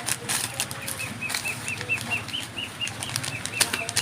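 A small bird calling a rapid run of short high chirps, about five a second, starting about a second in, over scattered clicks and rustles of small fishing-tackle packets being handled.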